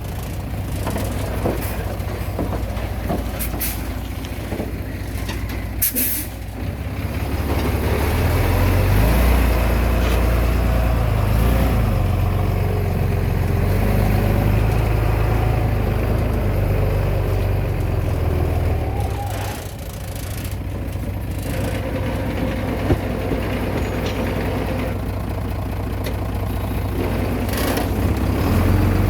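Heavy diesel engine running under load, rising and falling as it works, with a few short hisses in the first seconds.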